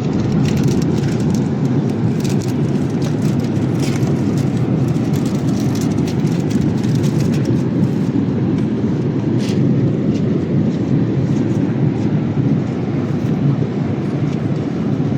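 Steady cabin noise inside a Boeing 787-8 in flight: a constant low rush of engine and airflow, with a few faint ticks.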